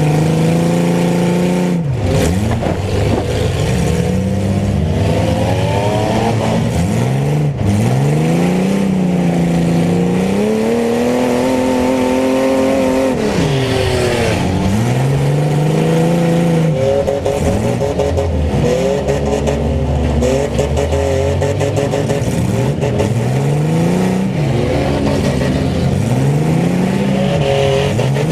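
Mini truck engines revving hard, the pitch climbing and dropping again every few seconds as the throttle is worked on and off, with more than one engine heard at once.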